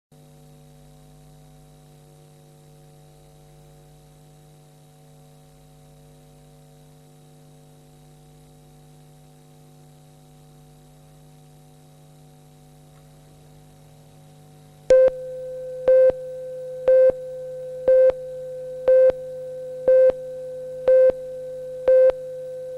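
A steady electrical mains hum with several overtones. About fifteen seconds in, a steady test tone starts, and a short, louder beep sounds once a second on top of it.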